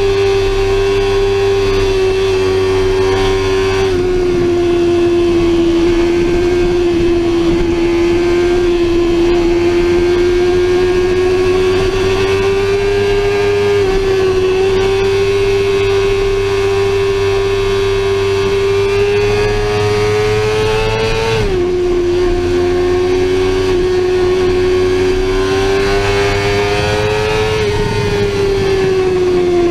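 Sportbike engine running hard at high revs, a steady high note that creeps up in pitch and drops suddenly three times as the rider shifts gear, then falls away near the end as the throttle comes off.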